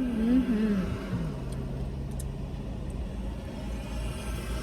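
Car engine idling, heard from inside the cabin as a steady low rumble and hum. In the first second a person gives a short wavering hum while tasting the ice cream.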